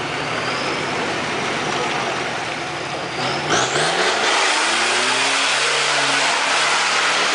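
Off-road 4x4's engine revving under load as it works up a muddy track, the revs rising and falling. It gets louder about halfway through as the vehicle comes close.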